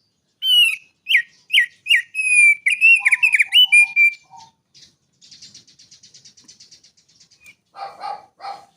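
Songbird singing: a run of loud, slurred whistled notes, then a fast, thin buzzy trill, then two harsh rasping notes near the end.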